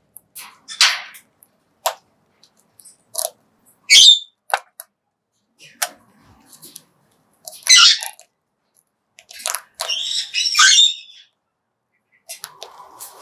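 Major Mitchell's cockatoo giving short squawks and calls every second or two, some rising in pitch, with sharp cracking clicks in between.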